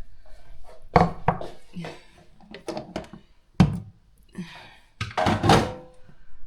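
Cookware being handled in a kitchen: a few sharp knocks and thunks about a second in, one hard knock past the middle, and a clatter of several more near the end.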